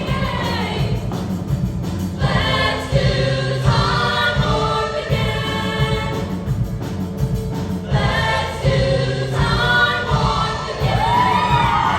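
A junior-high girls' choir singing in harmony, with a pitch that slides up and then falls near the end.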